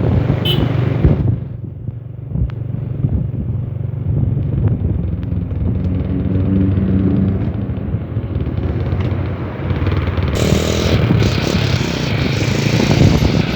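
Motorcycle engine running steadily with low rumble and road noise; a loud rush of hiss rises about ten seconds in.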